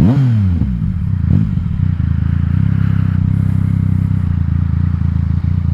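Yamaha XSR900's inline-three engine through an Akrapovic exhaust with its dB killer removed, under way. The engine note swoops down and back up in the first second or so, then holds a steady cruising pitch.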